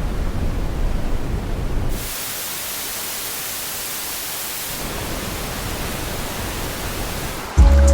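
Played-back noise: a deep, low noise for about two seconds, then a switch to a bright, even hiss of white noise. A loud, low pitched tone cuts in just before the end.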